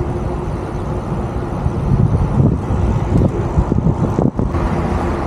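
Wind buffeting the microphone of a camera on a moving e-bike, over city street traffic, with a faint steady hum and a brief drop in level about four seconds in.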